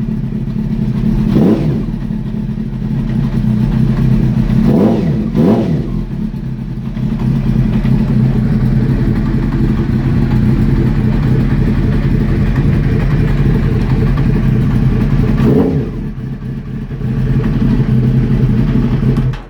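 1997 Honda CBR900RR Fireblade's inline-four engine running and blipped a few times, rising and falling quickly, then held at a steady fast idle until it cuts off near the end. The owner takes it as sound despite the crash, with only a small crack in the clutch cover.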